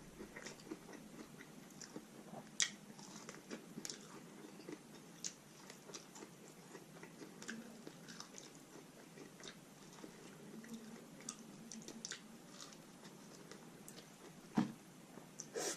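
A person biting and chewing food close to the microphone: soft, scattered crunches and wet mouth clicks, with a few louder bites.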